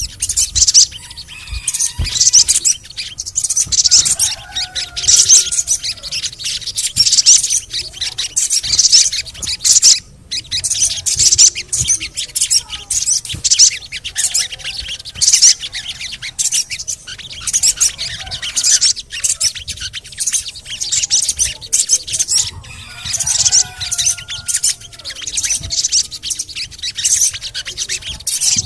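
Sogon, a sunbird, singing: rapid high-pitched chirping and chattering in repeated bursts with short pauses between phrases.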